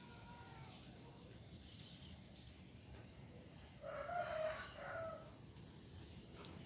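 A rooster crowing once, about four seconds in, with a few faint bird chirps earlier.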